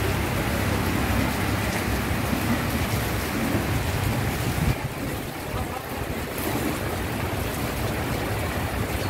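Heavy rain falling steadily, an even hiss; about halfway through the high part of the hiss drops off somewhat.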